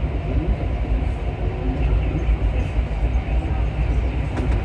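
Rubber-tyred MP14 metro train running at speed, a steady low rumble heard from inside the front car.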